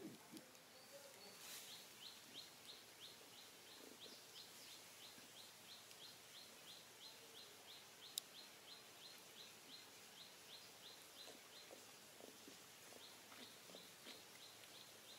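A small bird faintly calling in an even series of short, high chirps, about three a second, with a brief pause near the end. A single sharp click about eight seconds in.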